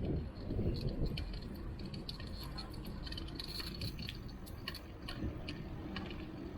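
Bicycle riding along a city street: a steady low rumble of tyres and road with scattered small clicks and rattles from the bike.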